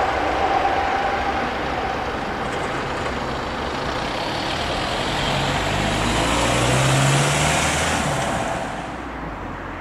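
A heavy vehicle passing with its engine running; the engine note rises in pitch, peaks about seven seconds in, then fades away.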